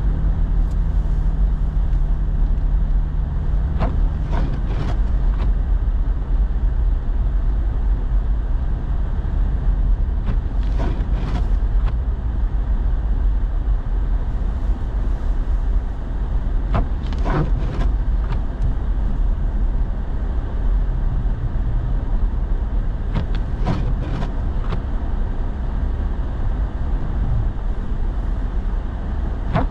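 Steady low rumble of road and engine noise inside a truck's cabin on the move, with a pair of brief clicks about every six seconds.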